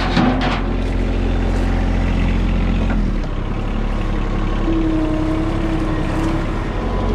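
Diesel engine of heavy machinery running steadily, its note shifting down about three seconds in. A thin whine sounds over it for a second or two near the middle.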